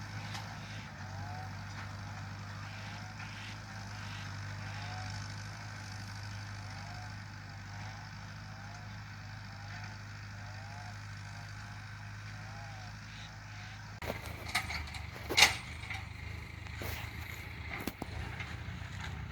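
A tractor engine running steadily with a low hum and a repeated wavering tone over it. About two-thirds of the way through, the sound changes abruptly to rougher machine noise with scattered knocks and clatters.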